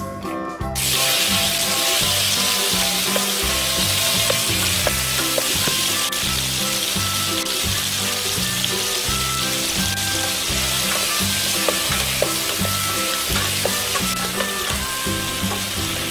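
Cherry tomatoes frying in hot olive oil in a non-stick pan, a loud steady sizzle that starts suddenly about a second in.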